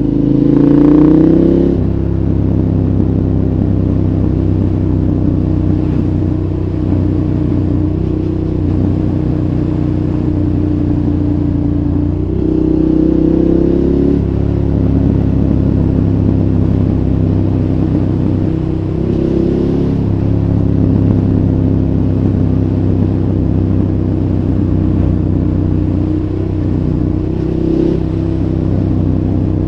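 2014 KTM 1190 Adventure's V-twin engine, through a Giannelli exhaust with dB killer, running steadily while riding, rising in pitch four times as the throttle is opened, loudest about a second in, then again around halfway, two-thirds of the way through and near the end. Wind and road noise run beneath it.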